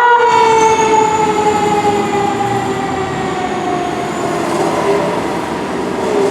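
Fire truck siren winding down: after a quick rise, the wail's pitch slides slowly and steadily downward and fades out after about five seconds.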